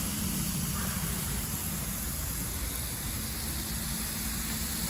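Burger patties sizzling as they fry, a steady hiss.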